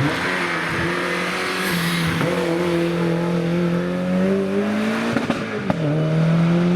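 Porsche rally car's flat-six engine pulling hard under load, its pitch climbing steadily. A sharp drop in pitch comes about five and a half seconds in as it shifts up a gear, then the engine climbs again.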